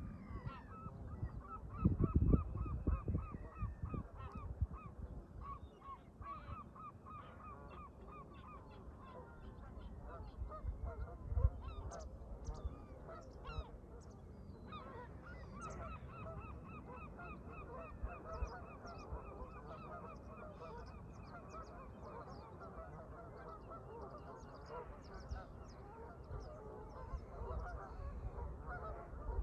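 A flock of Canada geese honking, many short calls overlapping in a constant chorus. Wind gusts rumble on the microphone about two seconds in and again near the middle.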